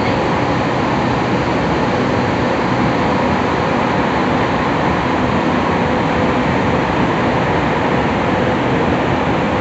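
Cabin running noise of a Tokyu 3000 series electric train with Hitachi IGBT VVVF traction equipment at steady speed in a tunnel: an even rumble of wheels on rail with faint steady tones underneath, no change in pitch.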